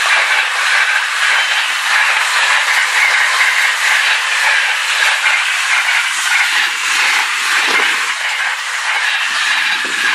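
Container freight train's flat wagons rolling past at speed: a loud, steady hiss and rumble of steel wheels on the rails, easing a little as the last wagons go by near the end.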